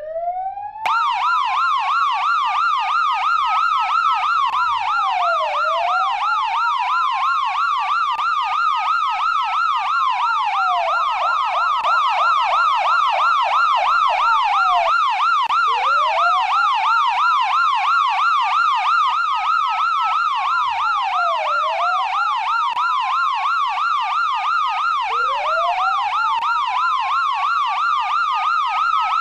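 Electronic police siren sounding two tones at once: a slow wail that climbs for about four seconds and drops back more quickly, over a fast yelp cycling up and down several times a second. The yelp cuts in about a second in, and the wail restarts from low several times.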